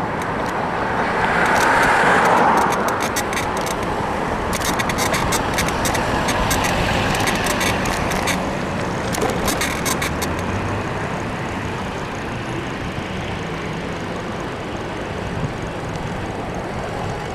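A bicycle's frame suspension creaks in quick runs of sharp clicks over about the first ten seconds, which the rider puts down to a worn suspension bushing. Under it runs steady road and traffic noise, with a car passing about two seconds in.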